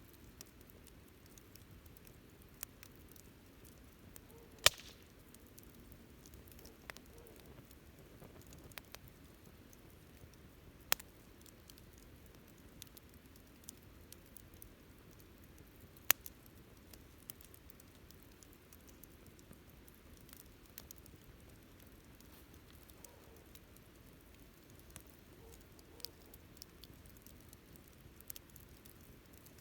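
Wood campfire burning with soft, irregular crackling and three louder sharp pops, about five, eleven and sixteen seconds in.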